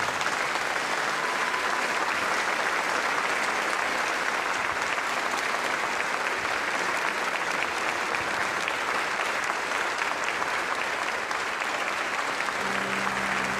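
Congregation applauding steadily, a dense, even clapping that holds throughout; music begins to come in near the end.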